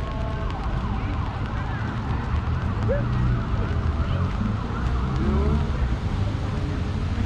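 Outdoor city street ambience: a steady low rumble, as of traffic, with many short chirping, whistling glides over it.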